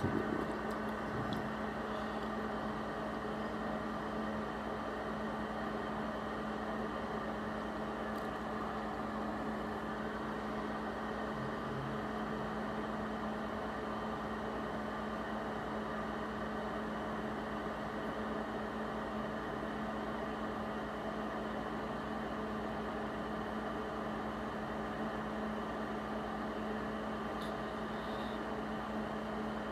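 Steady hum and whir of running electronic test equipment, with a constant low tone throughout.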